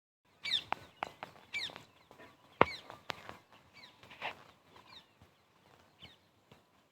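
Birds calling: a series of short, falling chirps about once a second, with a few sharp clicks among them, the loudest about two and a half seconds in.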